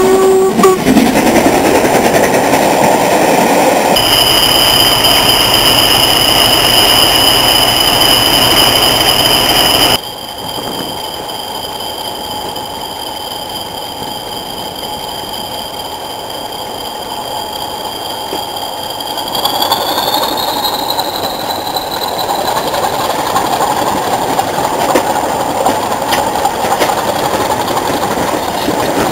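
Class 40 diesel-electric locomotive with its English Electric 16-cylinder turbocharged engine working hard as it hauls a train. A steady high turbocharger whistle joins the engine about four seconds in. The sound drops away suddenly after about ten seconds, the whistle fading out a little later, and is followed by a rumble of the train running on the rails.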